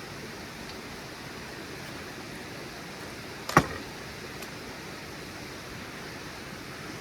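Steady background hiss, with one sharp click about three and a half seconds in.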